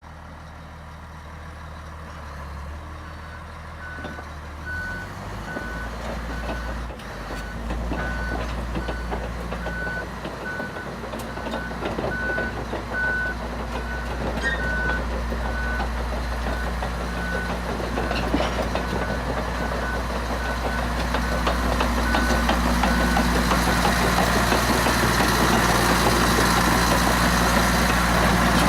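Komatsu D155AX-5E1 crawler bulldozer's diesel engine running, growing steadily louder, with its travel alarm beeping about once a second for most of the time.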